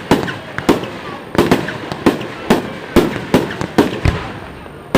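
Fireworks display: a rapid series of aerial shell bursts, about a dozen sharp bangs, each trailing off in an echo, over continuous crackling.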